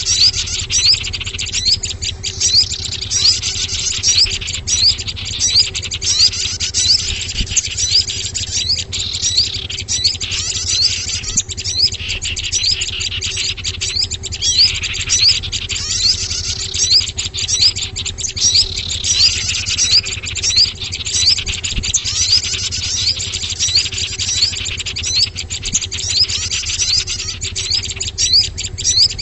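Small-bird lure recording (suara pikat burcil): many small songbirds chirping densely without a break, short high rising chirps repeated in quick succession over a steady low hum. It is a calling track played to draw small wild birds in.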